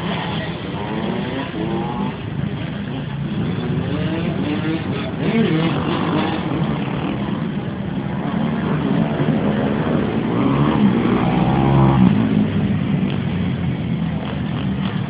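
Several dirt bike engines running and revving, their pitch rising and falling. The loudest revving comes about three-quarters of the way through.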